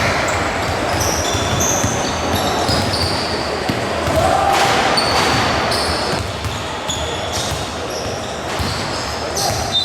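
Basketball game in a gym: a ball bouncing, with short high-pitched sneaker squeaks over the hall's crowd chatter.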